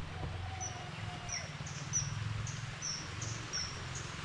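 A bird giving short, high chirps in a steady series, about three a second, over a low steady hum.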